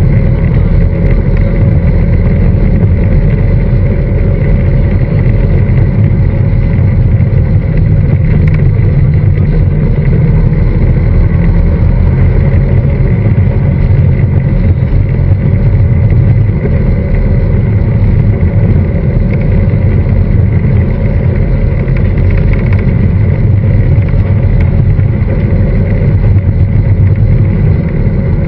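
Honda Fireblade inline-four engine of a Westfield Megablade running at a steady cruise, no revving, under heavy wind rush and buffeting in the open cockpit.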